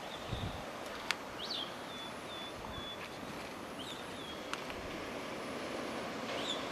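A seabird calling, a string of short high notes that rise and then hold, repeated several times, over a steady hiss of wind and surf. A sharp click sounds about a second in.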